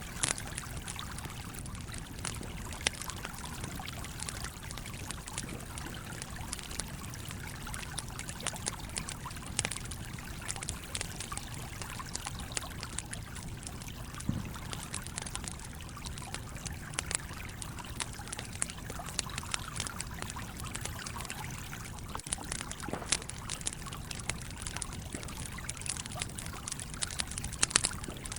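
A stream flowing steadily, with a wood campfire crackling over it in frequent, irregular sharp pops.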